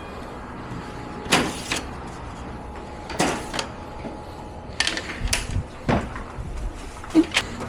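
Sharp clacks and knocks, about nine in all and some in quick pairs, over a steady low hum: plastic panels and parts of a Samsung two-in-one air conditioner being handled and unclipped during disassembly.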